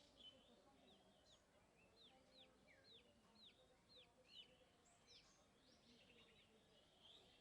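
Faint chirping of small birds: a run of short, high, falling chirps about twice a second, with scattered other chirps and calls around them.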